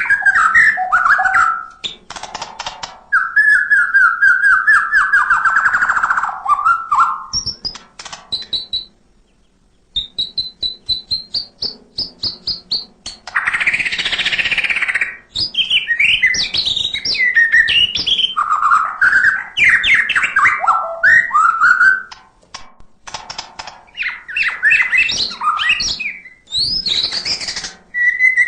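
White-rumped shama (murai batu) singing a long, varied song. It mixes loud whistled phrases that glide downward, quick high notes, and fast rattling runs of clicks, with a short pause about nine seconds in.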